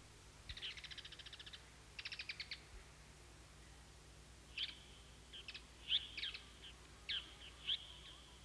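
Faint birdsong: two short, rapid trills, then from about halfway in a series of sharp, high chirps that drop in pitch, several trailing into a brief held whistle.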